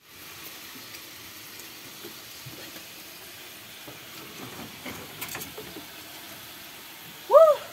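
Meat and tomatoes sizzling in a cooking pot, a steady hiss with a few faint clicks a little past the middle. Near the end a woman's voice gives one loud "woo!"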